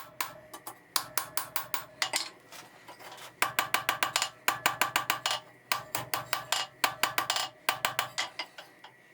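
Small ball-peen hammer striking a 1/2-inch square steel bar in quick light blows, about four or five a second, spreading a punched groove into a spoon shape. The blows come in several runs with short pauses, each with a faint metallic ring.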